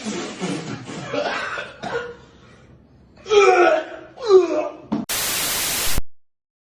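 A person's voice making short breathy sounds, then two brief cries falling in pitch, followed by about a second of loud even static hiss that cuts off abruptly into dead silence.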